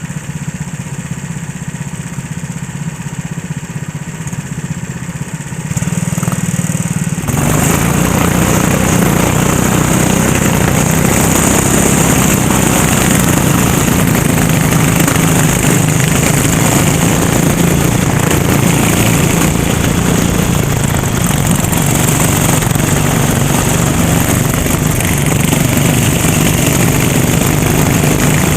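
Racing kart engine running at a lower level for about the first six seconds, then getting much louder in two steps around six and seven seconds in and staying loud and steady.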